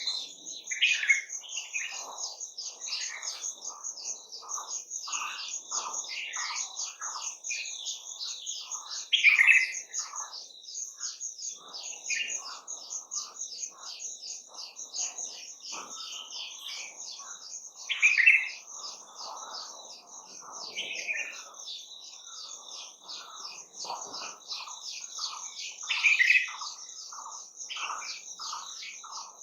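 Several wild birds singing together: a high, rapid trill goes on without a break while other birds chirp in short notes, and one louder song phrase comes four times, about every eight seconds.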